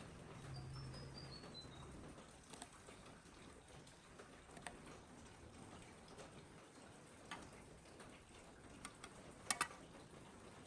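Quiet background with a few sparse, light clicks or taps, the loudest a quick double click near the end; a short, faint descending chirp of a few notes sounds about a second in.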